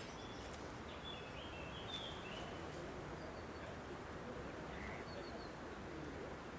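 Faint steady outdoor background noise with small birds chirping a few short calls, a cluster about one to two seconds in and a couple more near five seconds.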